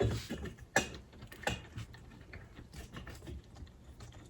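Metal hand tool clicking and clinking as an extended Allen key works a bolt into a motorcycle front fork leg, with three sharp clicks in the first second and a half and lighter ticks after.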